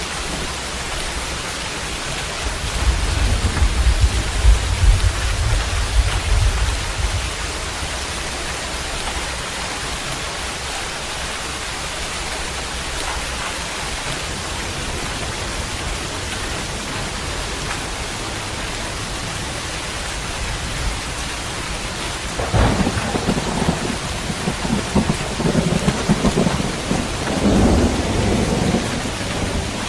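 Steady rain falling, with a low rumble of thunder a few seconds in. About twenty-two seconds in a sudden thunderclap breaks and rolls on for several seconds.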